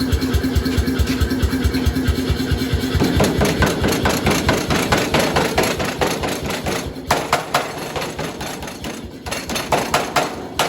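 Rapid, even hammer blows on hot steel while a knife blade is forged, about six strikes a second, with a steady mechanical hum under them for the first few seconds. The hammering pauses briefly twice in the second half.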